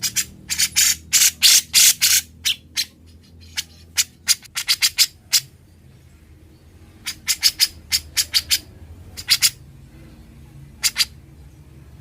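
Grey-cheeked bulbul (cucak jenggot) calling in quick runs of loud, harsh, scratchy notes. The runs are broken by short pauses, and the notes thin out towards the end.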